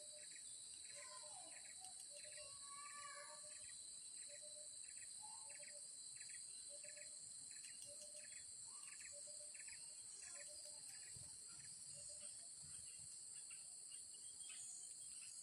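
Faint, steady high-pitched insect drone, with a regular series of short chirps a little under two a second and a few other bird calls.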